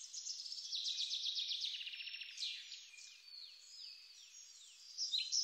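Small songbirds singing: a fast trill, then a run of falling whistles, then quick repeated chirps starting up again near the end.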